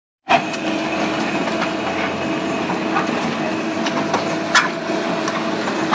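JS twin-shaft concrete mixer pump running: a steady mechanical drone with a constant hum and scattered clanks and knocks, the loudest about four and a half seconds in.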